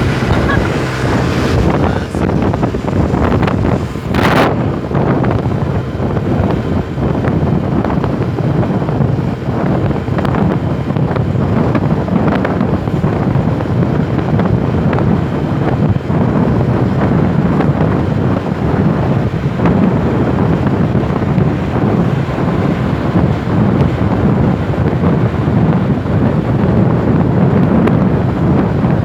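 Steady, loud road noise from passing trucks, with wind rumbling on the microphone. A brief hiss comes about four seconds in.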